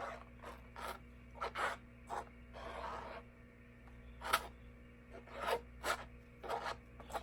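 Paintbrush stroking paint onto a plastic cup: a series of short, irregular scratchy brush strokes, about one or two a second.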